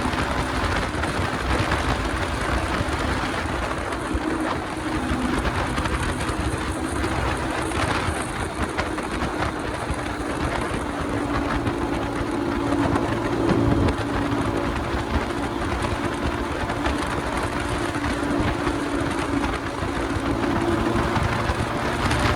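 Motorcycle engine running under way, its note wavering up and down with the throttle, over steady wind rush and road noise; it swells briefly about halfway through.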